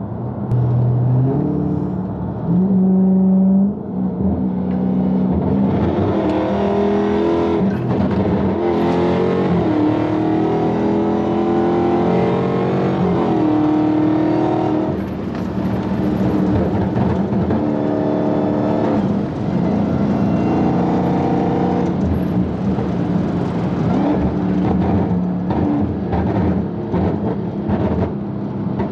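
Dodge Hellcat's supercharged 6.2-litre Hemi V8 accelerating hard through the gears, the engine note climbing and dropping back at each upshift, several pulls in a row.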